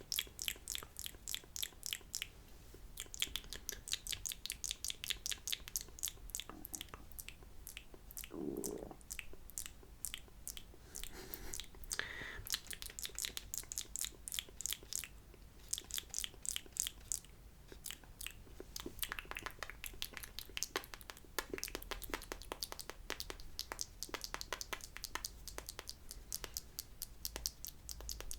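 Close-miked ASMR mouth sounds: wet lip smacks and tongue clicks in quick, dense runs, with a short hum a little after eight seconds in.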